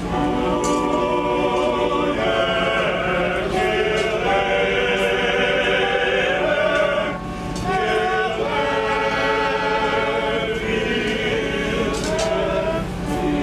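Male choir singing in harmony with long held notes, with a brief break between phrases about seven seconds in.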